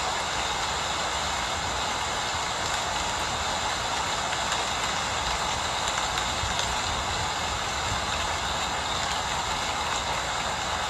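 Steady rain falling, an even continuous hiss with a low steady rumble beneath it.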